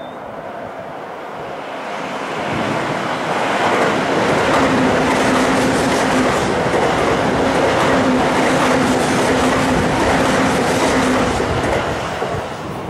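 Toei Shinjuku Line electric commuter train running past the platform. The noise builds over the first few seconds and then holds loud, with a steady motor hum and wheel clatter on the rails, before dying away near the end.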